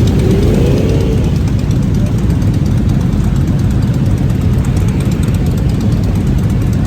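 Motorcycle engines running in a loud, steady, heavy low rumble.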